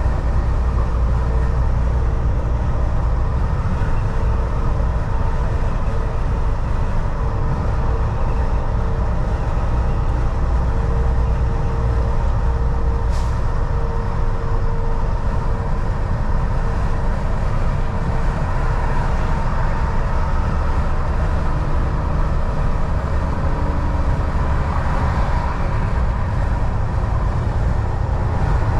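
Semi truck (Volvo VNL 760) cruising on the highway: steady engine drone and road noise with a low rumble. A single sharp click about halfway through.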